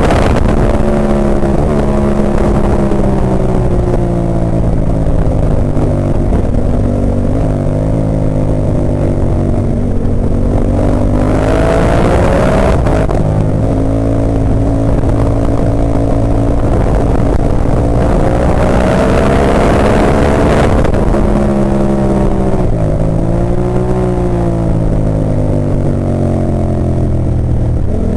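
Ducati 998's V-twin engine at race pace, heard from on board: revs climb and fall repeatedly as the bike accelerates down straights and slows for corners, with a quick gear change about 13 seconds in.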